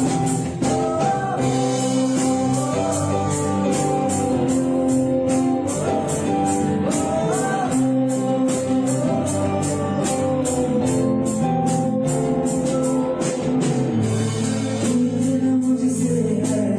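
Live band music: a singer's voice carries the melody over held chords, with a steady ticking high percussion beat.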